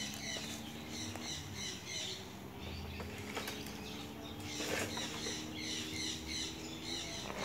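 Birds chirping in repeated quick series of short high notes. A faint steady low hum runs underneath.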